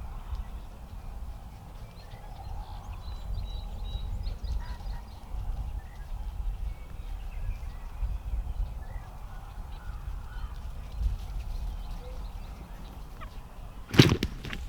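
A single shotgun shot about fourteen seconds in, loud and sudden with a short echo, fired at a wild turkey tom at the decoy. Before it, a steady low wind rumble on the microphone with faint bird chirps.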